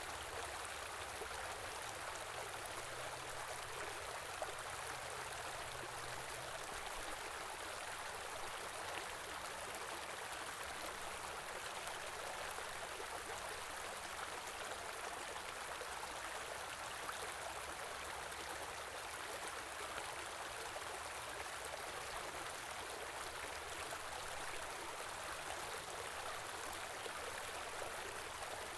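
A small river or stream flowing and babbling steadily over rocks.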